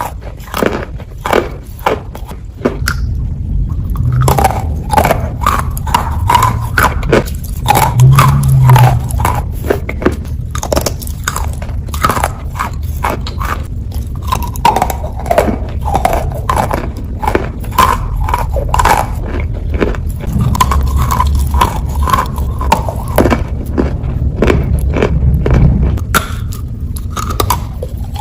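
Biting and chewing of wet Ural clay: a dense run of short, sharp wet clicks, with a low rumble underneath from about three seconds in.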